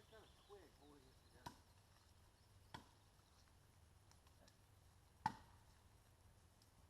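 Wood being chopped for firewood: three sharp strikes spread over a few seconds, the last the loudest.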